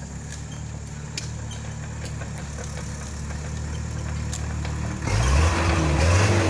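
Truck diesel engine running steadily at low revs, then about five seconds in it turns suddenly louder as it is revved, its pitch rising and falling.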